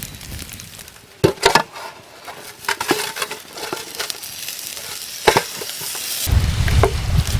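Chicken sizzling on a hot rock over a campfire, a steady hiss broken by several sharp knocks and clicks; a low rumble comes in near the end.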